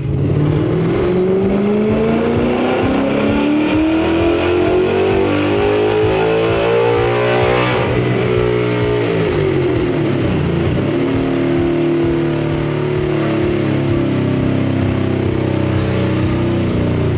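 Ford 5.0L Coyote V8 making a wide-open-throttle chassis dyno pull through long-tube headers: revs climb steadily for about eight seconds, then the throttle closes and they drop off and wind down over the rest.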